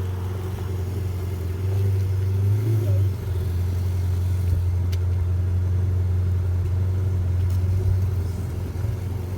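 A car engine idling steadily nearby: an even, low hum that holds its pitch, with no revving.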